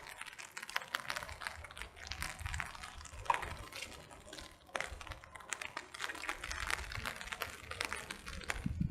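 Rain pattering: dense, irregular light ticking of drops, with no steady rhythm.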